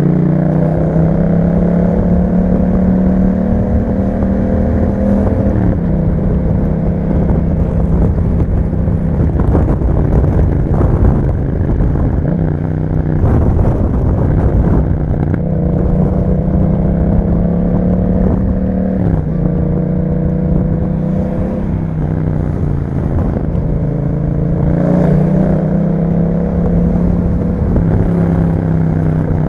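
2021 Yamaha MT-07's 689 cc parallel-twin engine running through an Akrapovic exhaust while riding. The engine pitch climbs steadily and then drops at gear changes, about five seconds in, around nineteen seconds and again near twenty-five seconds.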